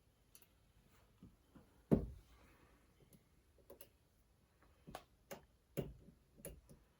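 Clicks and light knocks of small metal transmission parts being handled while a circlip is worked onto a transmission shaft. One sharper knock comes about two seconds in, and a run of quicker clicks comes near the end.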